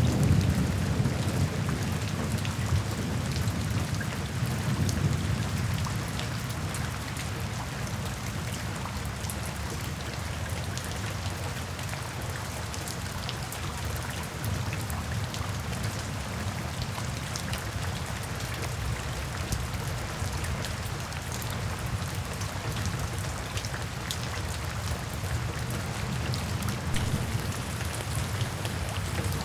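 Steady heavy rain falling, with scattered drop ticks, over a low rumble of thunder that is louder in the first several seconds and then settles to a steady level.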